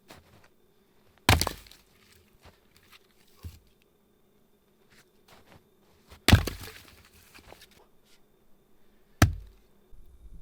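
Wood being chopped: three heavy blows, well spaced, with lighter knocks between them.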